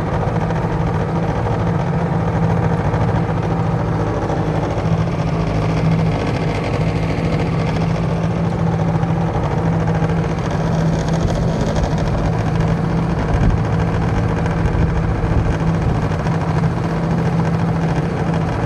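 1978 Mercury 7.5 hp two-stroke outboard motor running at a steady speed, pushing a jon boat along, with a steady low hum and some hiss over it.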